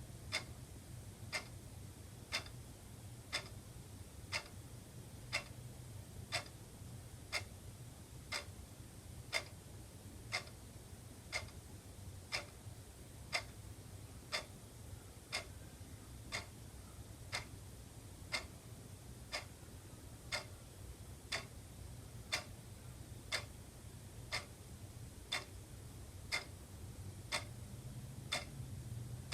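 Wall clock ticking steadily, about one sharp tick a second, over a faint low hum.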